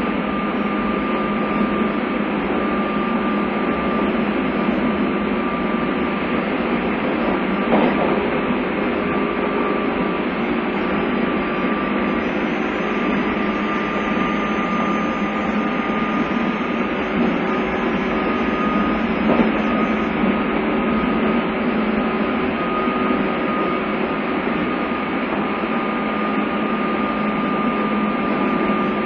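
Interior running noise of a JR East 201 series electric commuter train: a steady rumble of wheels on rail with a constant low hum and a steady high tone. Two single knocks come through, about 11 seconds apart.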